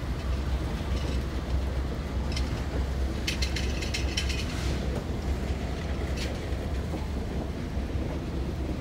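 Freight train of tank cars rolling past: a steady low rumble of the wheels on the rails, with sharp clicks and clanks of the wheels passing over the rail joints, thickest around the middle.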